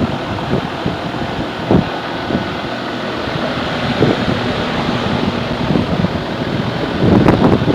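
Outdoor condensing unit of a 2007 American Standard heat pump running: the Emerson-motored condenser fan moves air in a steady whoosh, with the irregular buffeting of the fan blades. The buffeting grows louder near the end.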